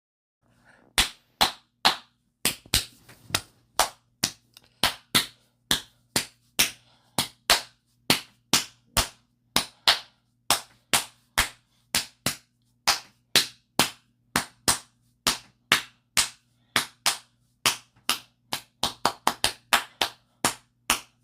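A rhythmic pattern of sharp claps, about two to three a second and coming quicker near the end, over a faint steady low hum: the bare clap rhythm that a new song's beat starts from.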